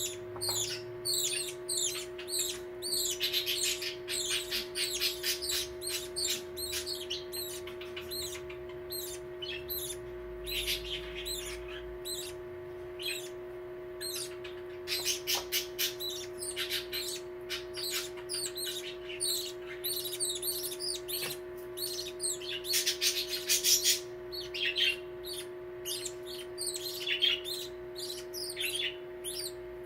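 Baby budgerigar chicks, about two and a half weeks old, chirping and squawking in quick runs of short high calls, loudest about four seconds in and again around twenty-three seconds in, over a steady low hum.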